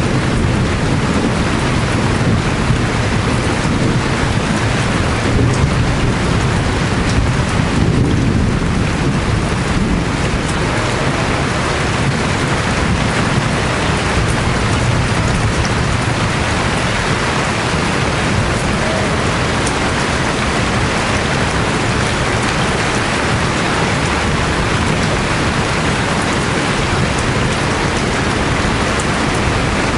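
Steady rain, with a low rumble of thunder over the first third or so that fades away.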